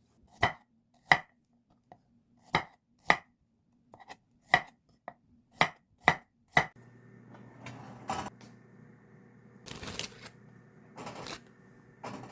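Kitchen knife chopping on a cutting board, about a dozen unhurried single strokes. About two-thirds of the way in this gives way to a steady hum and a few longer scraping, rustling bursts.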